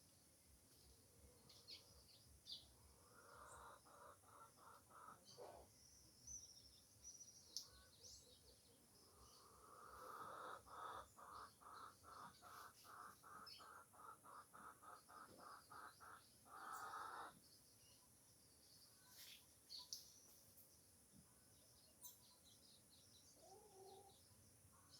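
Faint bird calls: scattered short high chirps, and two runs of quickly repeated lower notes, a short run a few seconds in and a longer one of about three notes a second through the middle.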